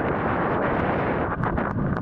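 Strong wind buffeting the camera microphone as a steady, loud rumbling roar, with a few brief crackles near the end.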